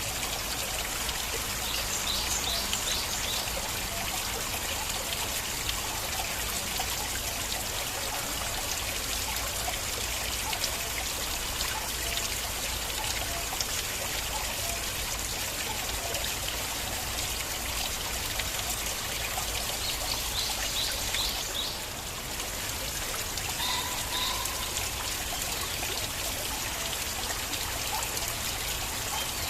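Small stream of water flowing and trickling steadily. Brief high chirps sound twice, near the start and again about twenty seconds in.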